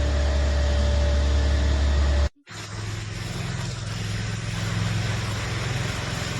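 A machine engine running steadily with a low hum. It breaks off about two seconds in and comes back with a different, rougher note.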